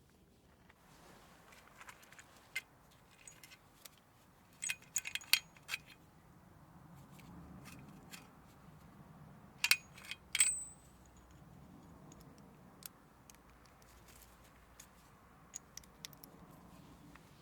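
Scattered metallic clinks and taps of small metal objects being handled, in clusters about five and ten seconds in, one clink ringing briefly.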